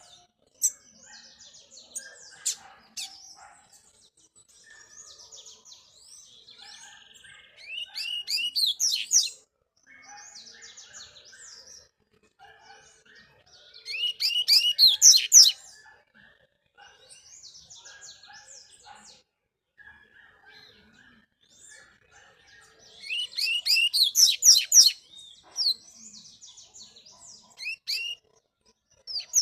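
Double-collared seedeater (coleiro) singing: three loud, fast song phrases about a third of the way in, near the middle and past two-thirds, with softer chirps and calls between them.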